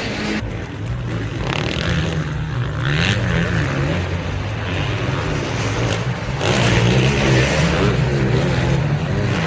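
Motocross dirt bike engines revving on the track, pitch rising and falling with the throttle as the bikes go through their gears, growing louder about six and a half seconds in as a bike comes closer.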